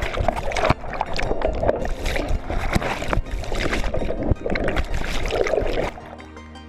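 Water splashing and surging around a boat, with irregular knocks and jumbled noise on the microphone. Near the end it drops to a quieter, steady low hum.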